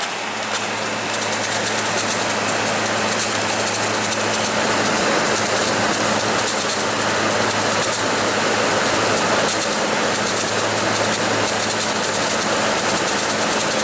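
Arctic King WWK05CM71N window air conditioner running, its GMCC rotary compressor giving a steady hum under the rush of the unit's fan. The compressor sounds pretty harsh.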